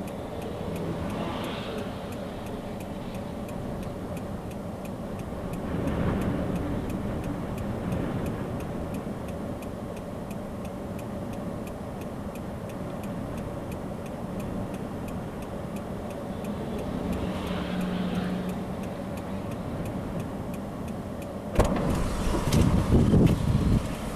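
Steady vehicle running noise with a faint regular ticking throughout; a louder, rougher rush of noise sets in near the end.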